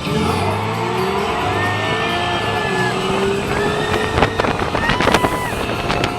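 Radiator Springs Racers ride audio: music together with a slowly rising car-engine sound, over the rumble of the moving ride vehicle, with a few sharp clicks about four to five seconds in.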